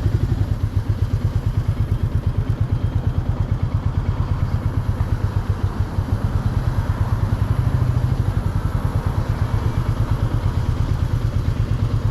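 A Royal Enfield Meteor 350's single-cylinder engine running with an even, steady thumping beat of about eight pulses a second.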